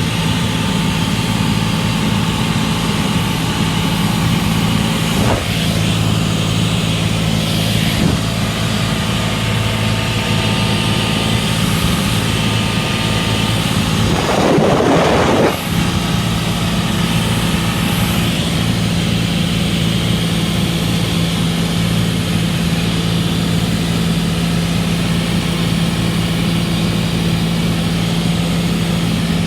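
Cessna 182's piston engine and propeller droning steadily, heard inside the cabin, with a brief louder rush of noise about halfway through.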